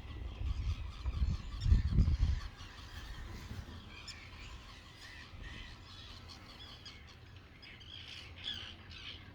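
Outdoor bird calls: scattered squawks and chirps, busiest near the end. In the first two seconds there is a loud, low buffeting rumble.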